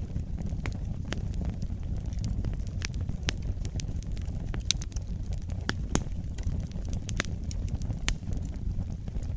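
Fireplace fire burning: a steady low rumble with irregular sharp crackles and pops, a few of them louder, such as around the middle and about eight seconds in.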